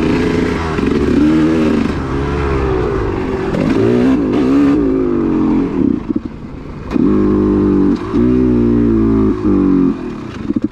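2002 Honda CR250 single-cylinder two-stroke engine revved in repeated throttle blips, with its revs sagging low for about a second around six seconds in. The engine keeps dying, and the cause is unknown to the rider.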